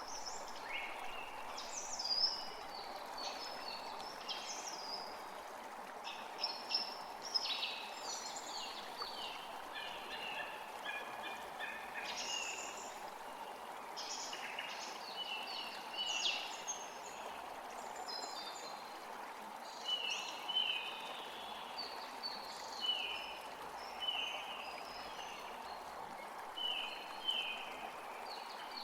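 Forest creek flowing steadily, with several songbirds singing and chirping over it; near the end one bird repeats a short note about once a second.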